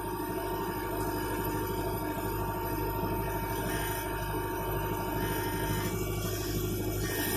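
Mahindra 2638 tractor's diesel engine running steadily under load, driving a PTO snowblower through snow.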